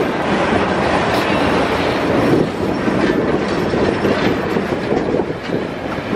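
Track machines and equipment cars of a BNSF maintenance-of-way train rolling past close by on steel rails: a loud, steady rolling noise with irregular clatter from the wheels.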